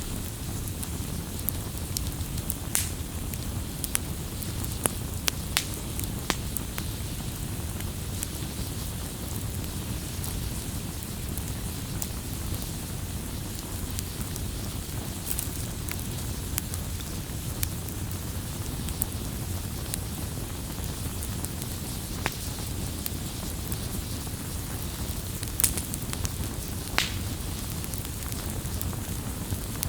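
Campfire crackling: irregular sharp pops and snaps over a steady low rumble of burning, with a couple of louder snaps near the end.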